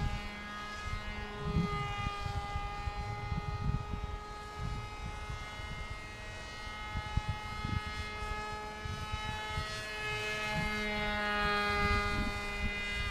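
Motor and propeller of a radio-controlled foam model plane whining steadily in flight, the pitch sagging a little and then rising and getting louder near the end as it comes back closer. Gusts of wind rumble on the microphone underneath.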